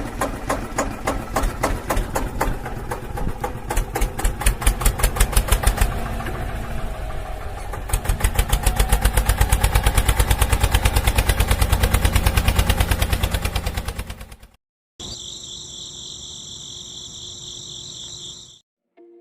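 Small tractor engine chugging in a fast, even knock that grows louder and quicker about halfway through, then cuts off suddenly. After a short gap a steady high-pitched whine runs for a few seconds.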